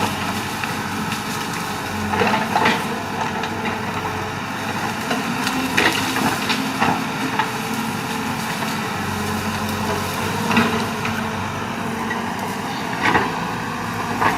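Excavator's diesel engine running steadily, with irregular knocks and crunches of the machine working wood and debris.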